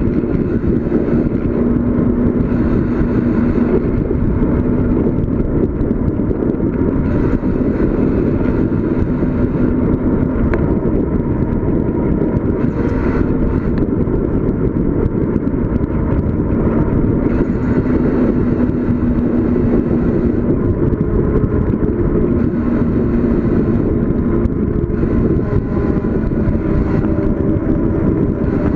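Steady loud rush of wind and road noise on the microphone of a bicycle coasting downhill, with faint steady tones that come and go.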